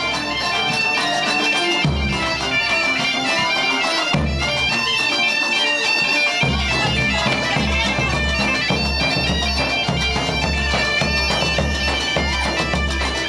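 Bagpipes playing a tune over their steady drone, loud and continuous.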